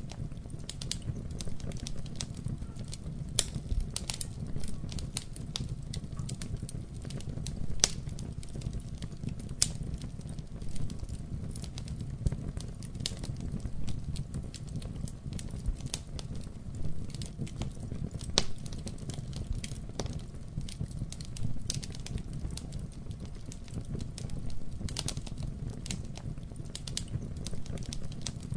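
Wood fire burning in a fireplace: a steady low rumble of flames with irregular crackles and pops, a few sharper snaps among them.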